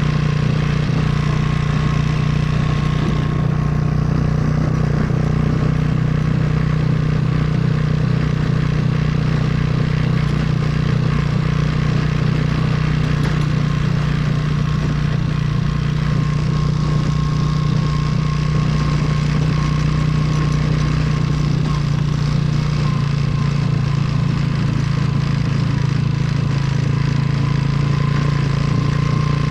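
Motorcycle engine running steadily at a constant pace, its engine note holding nearly level with only a slight dip in pitch near the end.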